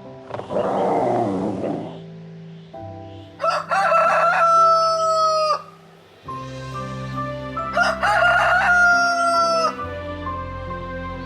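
Rooster crowing twice, each crow a long held call that drops in pitch at its end, over steady background music. A short rough noise comes about a second in.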